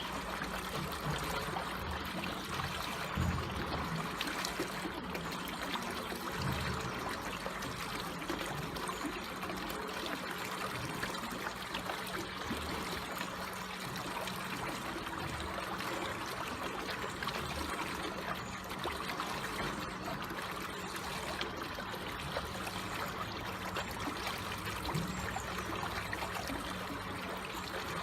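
Water flowing slowly and steadily with a gentle, even trickle.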